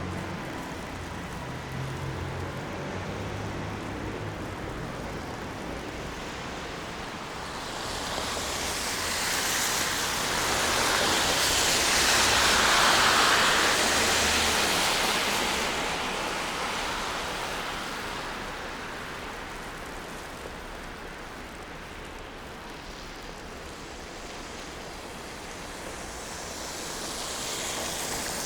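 A vehicle passing on a snowy city street: its tyre hiss swells to a peak about halfway through, then fades. A second one approaches near the end, over a low hum of traffic.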